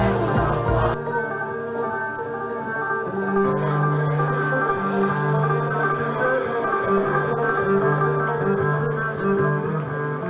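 Acoustic string band music in a bluegrass style: plucked strings over long held notes. The drums and low beats drop out about a second in.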